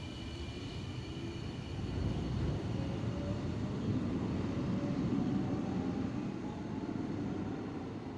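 Hanshin Railway electric train running along the station track: a low rumble that swells to a peak midway and then fades, with a faint whine that slides in pitch.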